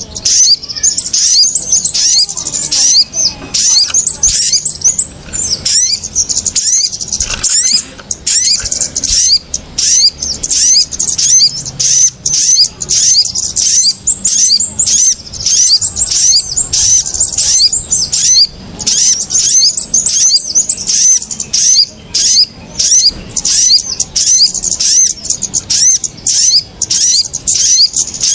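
Bird-lure recording of small birds, kemade and sogon, calling together: a dense, agitated chatter of short high-pitched chirps, several a second with only brief gaps. Lure calls meant to draw small birds down to perch on lime sticks.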